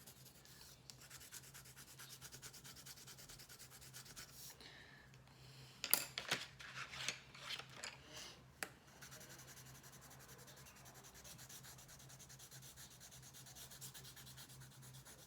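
Rapid shading strokes of a gray drawing tool rubbing back and forth on paper, a soft steady scratching that grows louder and scratchier for a few seconds in the middle.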